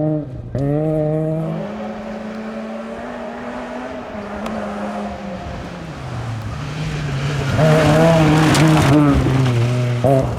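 VAZ 2113 rally car's four-cylinder engine at full throttle, shifting up about half a second in and holding high revs, easing off past the middle, then pulling hard again. It is loudest from about eight seconds in, with a rush of tyre and road noise as the car passes close.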